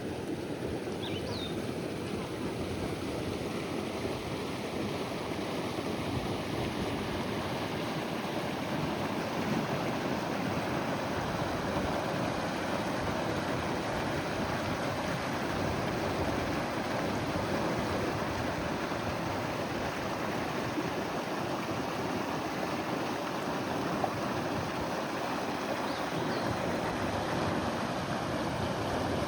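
Steady rushing water around a bamboo raft on the river, an even wash of noise. A faint short high chirp comes near the start and again near the end.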